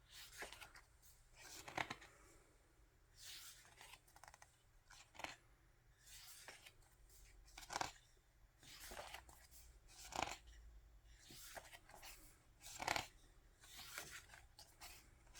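Faint paper rustling from an album photo book being leafed through, with a soft page-turn rustle every second or so.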